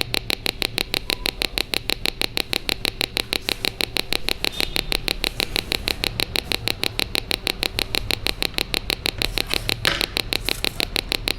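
Small speaker driven by a two-transistor capacitor-based oscillator (NPN 547 and PNP 557, 220 µF capacitor) giving a steady train of sharp clicks, about six a second, each click one charge–discharge cycle of the capacitor.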